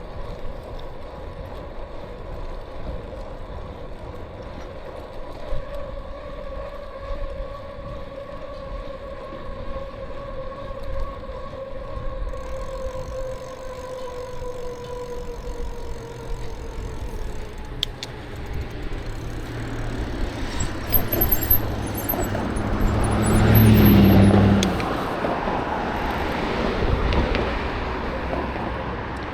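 A motor vehicle passing close by, with a low engine hum, loudest about three-quarters of the way through, over steady wind and road noise. Earlier, a faint whine slowly falls in pitch.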